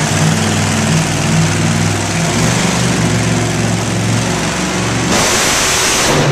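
A loud vehicle engine running steadily. A broad hiss joins it about five seconds in.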